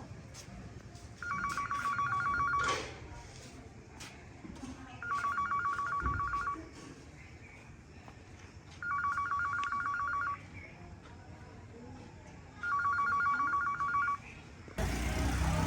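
A telephone ringing with an electronic trilling ring: four rings of about a second and a half each, roughly every four seconds. Near the end the sound cuts suddenly to louder, noisy street sound.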